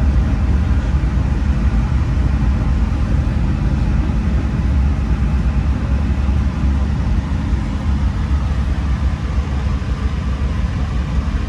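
A moving passenger train, heard while riding it: a steady low rumble that goes on without a break.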